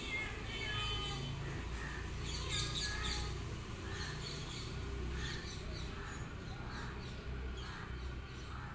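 Small birds chirping in quick clusters of short high notes, over a steady low rumble.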